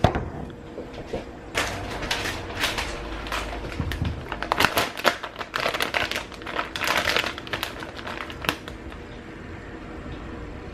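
Irregular quick clicks and rustles of hands at work preparing a salad.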